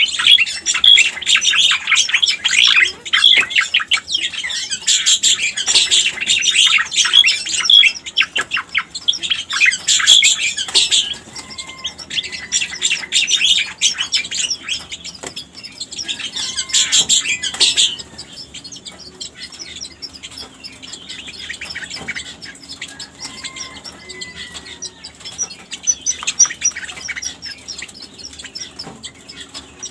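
Striated grassbird (cica koreng) singing: a loud, rapid, dense chattering for the first half, then softer, with short high repeated notes and a few slurred whistles.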